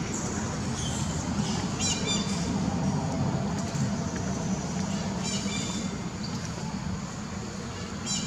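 Birds giving short, high squawking calls, about four spaced a couple of seconds apart, over a steady low background rumble.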